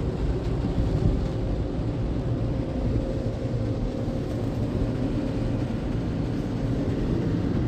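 Automatic tunnel car wash equipment heard from inside the car's cabin: a steady rumble of machinery and spray on the car, with a faint steady hum joining about a second and a half in.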